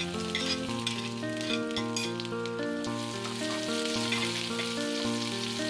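Diced onion sizzling and crackling in hot oil in a frying pan just after being tipped in, with spices already frying. Gentle instrumental background music with held notes plays throughout.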